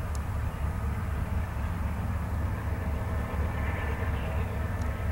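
A diesel locomotive hauling a train along the line at a distance, heard as a steady low rumble.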